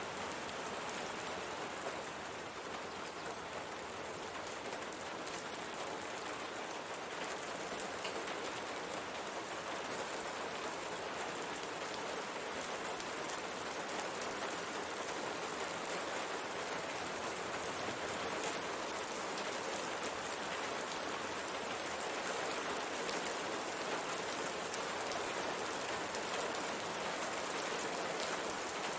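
Steady rain falling on a window pane, an even hiss of rain with faint scattered drop taps.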